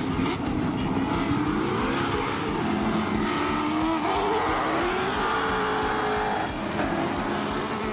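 Sports sedan race cars passing on a warm-up lap, several engines overlapping, their notes rising as they accelerate one after another.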